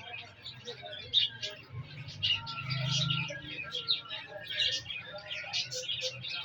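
Green parrots chirping, a rapid run of short, high-pitched calls, several a second, overlapping throughout.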